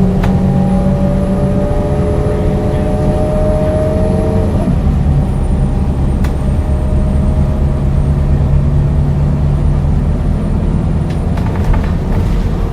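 Scania DC9 9-litre six-cylinder diesel bus engine and ZF automatic driveline pulling under way. The whine climbs slowly in pitch, then drops about four and a half seconds in as the gearbox changes up, and the engine settles into a steady lower drone.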